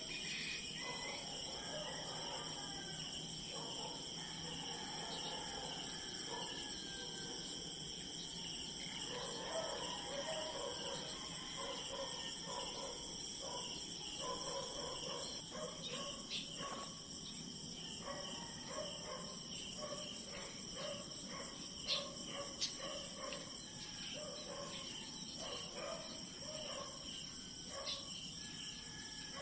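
Insect chorus trilling steadily in several high-pitched layers, with many short lower calls from another animal and two sharp clicks about two-thirds of the way through.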